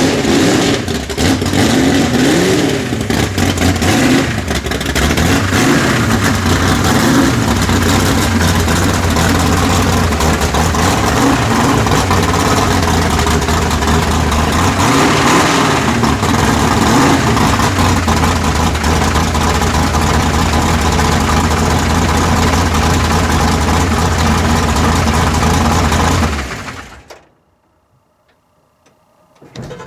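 Truck engine running loud, revving up and down in the first few seconds and again around the middle, otherwise holding a steady note; the sound stops abruptly a few seconds before the end.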